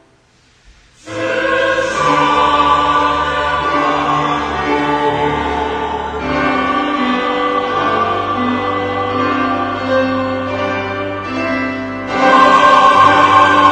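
Church choir singing a hymn. After a short silent pause it comes back in about a second in, and it swells louder near the end.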